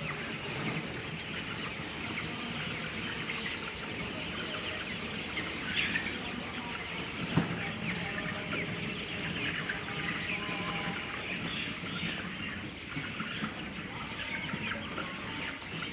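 A flock of broiler chickens calling together in a dense, continuous chatter. A single sharp knock sounds about seven seconds in.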